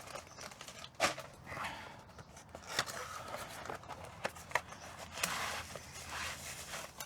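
Packaging being unwrapped by hand: irregular rustling and crinkling of wrapping material with scattered sharp clicks and taps.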